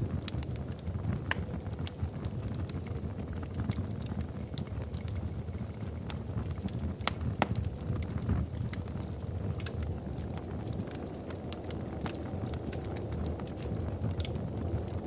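Wood fire burning in a fireplace, with a steady low rumble of the flames and scattered sharp crackles and pops.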